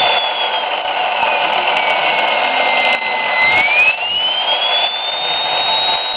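Wilesco T90 model steam turbine running with a rushing steam hiss and a high whine. About a second in, the whine slides down in pitch, then climbs back up to its first pitch near the middle.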